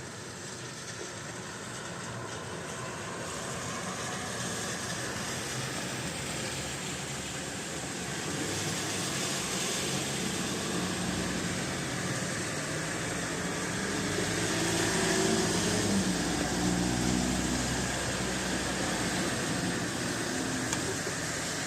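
Road traffic on a rain-soaked street: a steady hiss of rain and wet tyres that slowly swells, with a vehicle's engine growing louder and passing about two-thirds of the way through.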